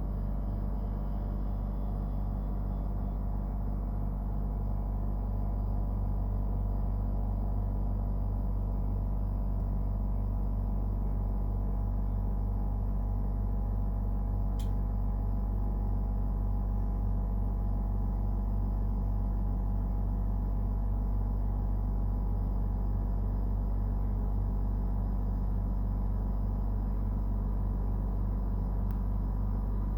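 Brand-new Dometic Freshjet 3200 rooftop air conditioner running, its compressor giving a steady low hum with several pitched tones over it. The owner finds the compressor and unit very noisy, far from normal operation. A faint click about halfway through.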